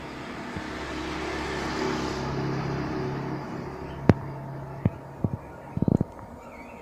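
Truck engine running, swelling in level to a peak about two seconds in and then easing back, followed by several sharp clicks or knocks in the second half.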